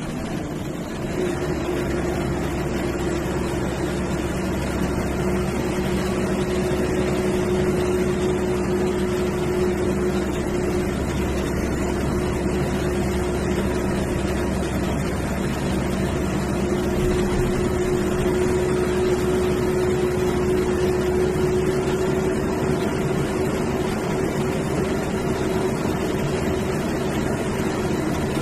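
Sleeper/seater bus on the move: a steady engine drone and road noise with a held humming tone, getting louder about a second in.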